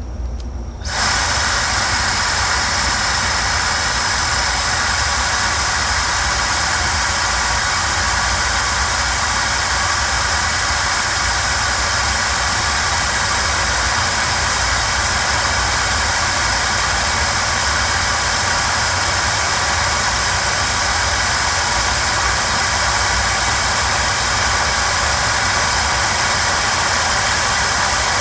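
Winchef Saturn Air WTH-S1 hair dryer switched on about a second in, then running steadily on its lowest airflow setting with an even rush of air. It runs through its cool, lukewarm and warm heat settings with no audible change in the sound.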